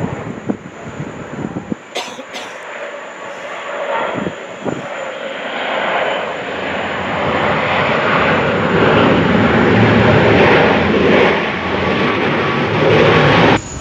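Jet airliner engines heard across the airfield, a wide roar that grows louder over several seconds, then cuts off suddenly near the end.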